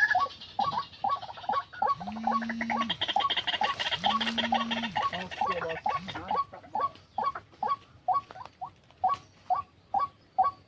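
White-breasted waterhen giving its repeated 'wak wak' call, short calls coming steadily about two to three a second. Two low, steady tones about a second long sound around two and four seconds in.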